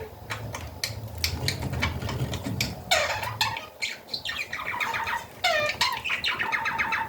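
Budgerigars chattering: a run of short, sharp chirps and clicks, then harsher, buzzy squawks from about halfway in.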